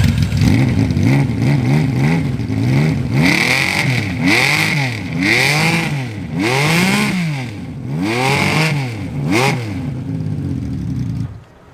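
Honda CBX air-cooled inline-six engine revved through its aftermarket exhaust, the throttle blipped over and over, about once a second, each rev rising and falling back. The sound cuts off abruptly near the end.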